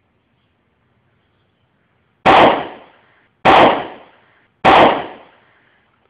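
Dry ice bomb bursting: three loud, identical bangs about a second apart, each dying away in about half a second.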